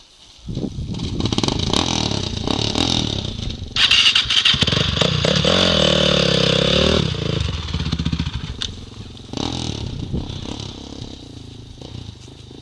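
Dirt bike engine starting about half a second in and running. It is revved hard for a few seconds in the middle, pitch rising and falling, then drops back to a lower, steadier run.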